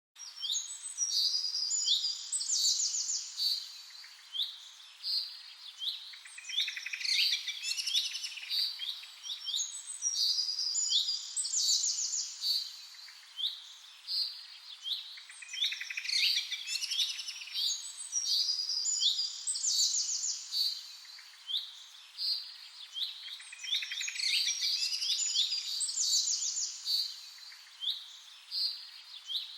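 Songbirds chirping and singing in quick, overlapping high-pitched calls and trills, cutting in suddenly out of silence. The same run of calls seems to come round again about every eight seconds.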